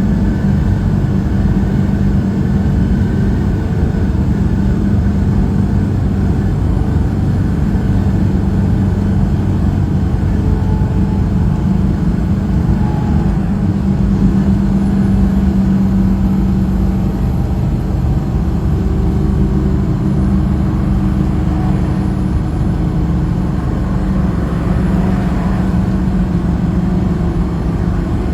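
Truck engine and road noise while driving, a steady low drone that holds the same pitch throughout.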